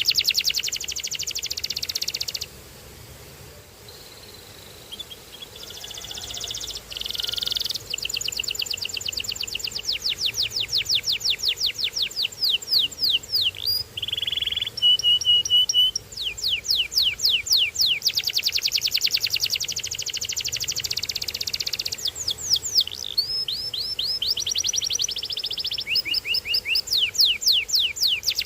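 Canary singing: long rolling trills of rapid repeated notes that sweep downward, broken by a short pause near the start and by brief steady whistled notes about halfway through.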